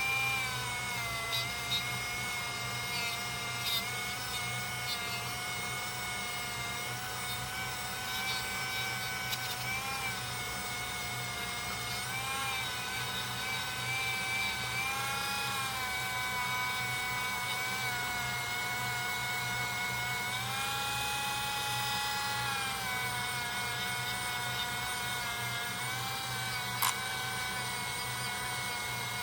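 High-speed rotary tool running with a small buffing wheel fitted: a steady whine whose pitch sags a little several times as the wheel is pressed against the knife, then recovers.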